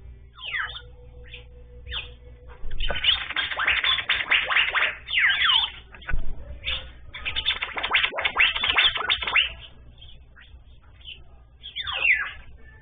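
Small birds chirping and twittering over one another in dense bursts of quick pitch sweeps, with single falling calls at the start and near the end.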